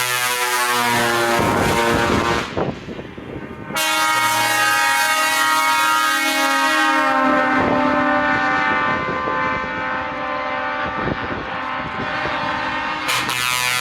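Truck air horns sounding long, loud chorded blasts: one held for about the first two and a half seconds, another from about four seconds in, and a third starting near the end.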